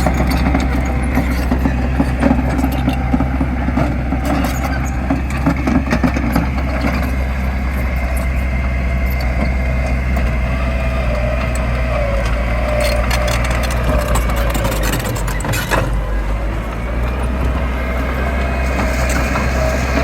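Diesel engine of heavy earthmoving machinery running steadily under load, with a few short metallic knocks, the clearest about 16 seconds in.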